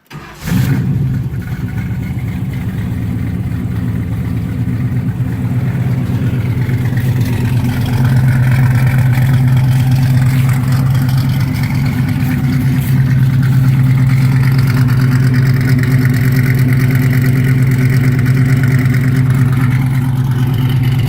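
Chevrolet 350 cubic inch V8 with a mild 280-duration cam, full-length headers and dual exhaust, starting up about half a second in and then running at a steady idle.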